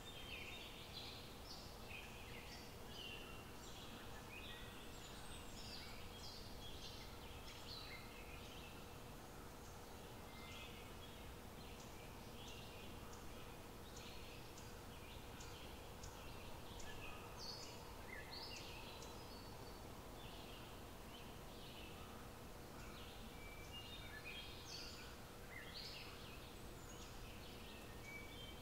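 Small birds chirping in short, irregular calls throughout, over faint steady background noise with a thin constant hum.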